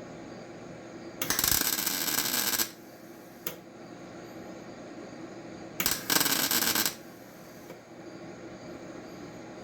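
Power grinder stripping paint from the sheet metal of a car's engine bay, in two short bursts about a second long, with a brief click between them.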